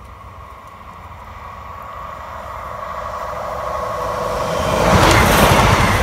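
Diesel multiple unit passenger train approaching and passing close by at speed. A steady hum from the rails builds over several seconds, then the rush and rumble of the wheels peaks as the train passes, about five seconds in.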